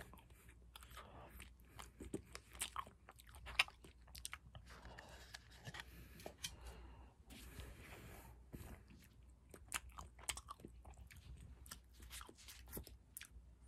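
Close-up eating sounds of a vanilla ice cream cone being bitten and chewed: irregular wet mouth clicks and smacks with crisp crunches, the sharpest about three and a half seconds in.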